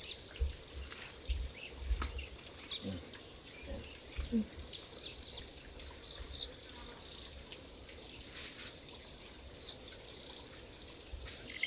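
Steady high-pitched chirring of insects, with a few short bird-like chirps and low thumps scattered through.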